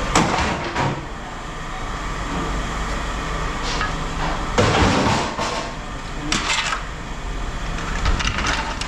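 Pieces of scrap metal clanking and clattering as they are handled and tossed, in several separate knocks, over a steady low machine rumble.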